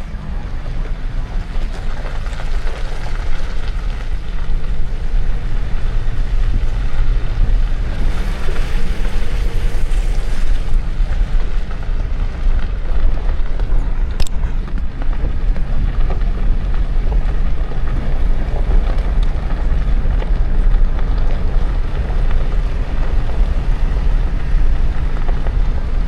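Toyota Tacoma pickup driving: a steady low rumble of engine and road noise with wind buffeting the microphone. There is a single sharp click about 14 seconds in.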